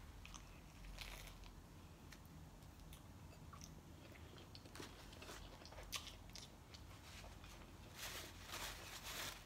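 Faint bites and chewing on a Wendy's spicy chicken sandwich, with soft crunches from the breaded fillet scattered through. There is a short rustle about eight seconds in.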